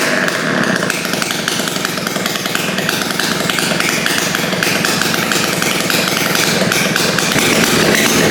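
Suzuki TS125X two-stroke single-cylinder engine running, its revs rising near the end.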